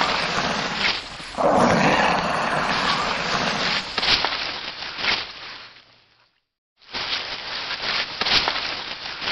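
Monitor lizard hissing: long, breathy hisses one after another, with a short break about six seconds in.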